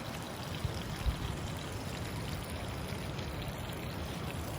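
River water running steadily, with a couple of faint low knocks about a second in.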